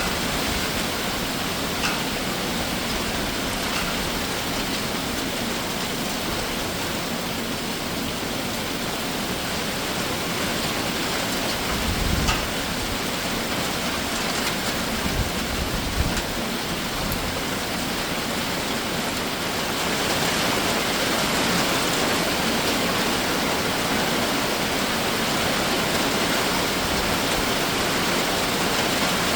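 Summer shower rain falling steadily, growing a little heavier about two-thirds of the way through. A few brief low thumps sound near the middle.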